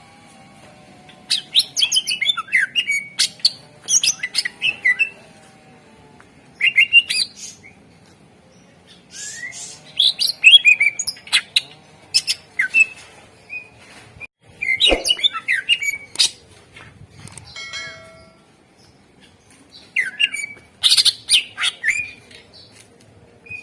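Greater green leafbird (cucak ijo) singing: repeated bursts of rapid, varied chirps and whistles with short pauses between them. This is the loud, full 'gacor' song played as a lure to set caged birds singing.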